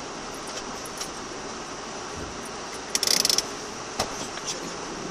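Steady in-cabin noise of an off-road vehicle, with a short, loud rattle about three seconds in and a single sharp click about a second later.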